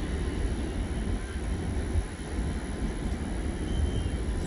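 Low, irregular rumble of a freight train receding down the line after clearing the crossing, mixed with wind buffeting the microphone.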